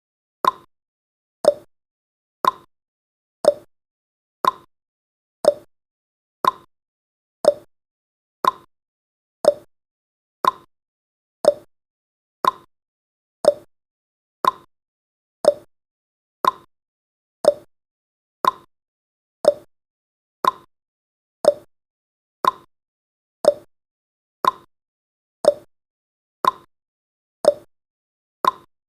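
Ticking-clock sound effect of a countdown timer, one short sharp tick every second, evenly spaced.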